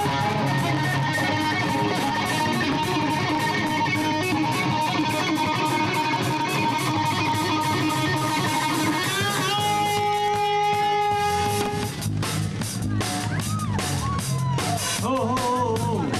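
Live rock band playing: electric guitar holding long notes with bends over bass and drums. About twelve seconds in, the held notes stop and the drums come forward.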